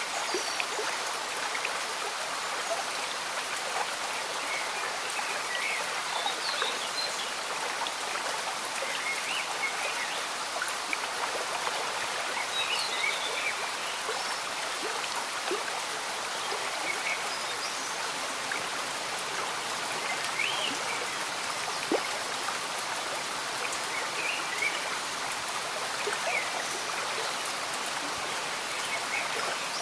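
Gentle stream bubbling steadily under light rain, with scattered raindrop ticks. Short high chirps come every few seconds.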